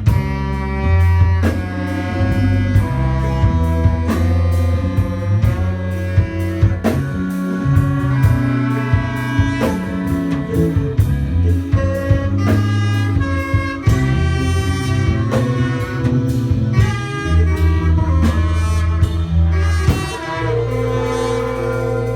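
Live instrumental jazz band playing: saxophone and brass horn lines over electric bass, synthesizer and a drum kit keeping a steady beat. About two seconds before the end the drums drop out, leaving a held chord.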